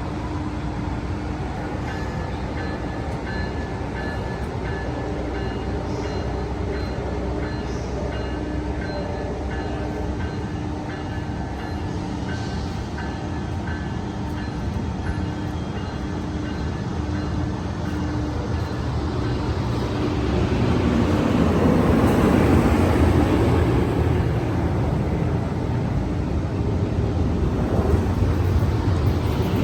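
Amtrak Capitol Corridor train with a Siemens SC44 Charger diesel locomotive, standing with a steady rumble and a repeating ringing tone. About twenty seconds in it grows louder into a broad rolling rush as the train gets under way.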